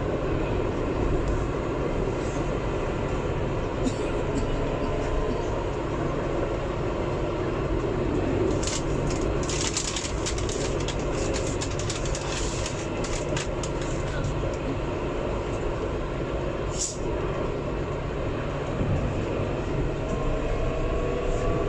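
Alstom Citadis 402 tram running along its track: a steady rumble of wheels on rail with the hum of the traction motors, a cluster of sharp high clicks and squeaks in the middle and another a little later, and the motor tone rising near the end as it picks up speed.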